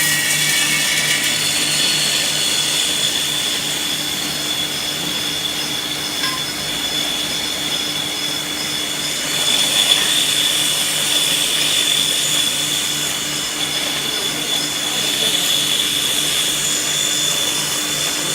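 KNC80 peanut butter grinder running steadily: an electric motor's steady hum with a high whine over it, getting a little louder about ten seconds in.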